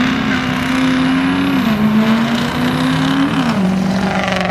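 Diesel pickup truck engine running hard down the drag strip, its note stepping down twice, about a third of the way in and again after three seconds.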